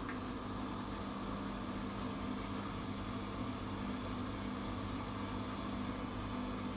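Atlant 70C1010-02 front-loading washing machine running with a steady mechanical hum, its motor turning at a constant speed, with a faint click right at the start.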